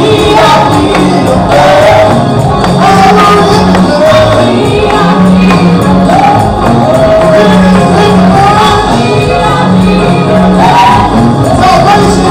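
Loud live gospel praise music: voices singing over a band with sustained low notes, a steady percussive beat and tambourine.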